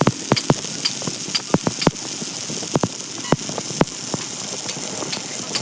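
Welding arc on thin sheet metal, hissing steadily with irregular sharp crackling pops.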